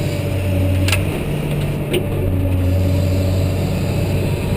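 Cat 988H wheel loader's diesel engine running steadily under load, heard from inside the cab, held at about 1900 RPM by the throttle lock. Two sharp clicks sound about a second apart.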